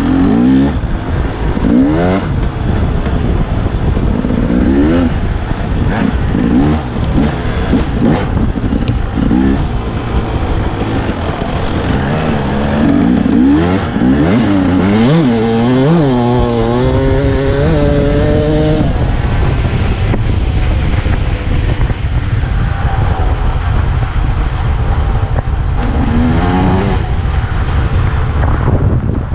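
Dirt bike engine revving up and down again and again. From about two-thirds of the way through it runs steadier and lower under a constant rumble, with one more rev near the end.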